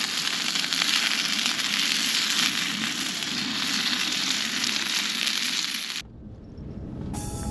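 Food sizzling and crackling as it fries in a hot pan, a dense steady hiss that cuts off abruptly about six seconds in. Soft music begins near the end.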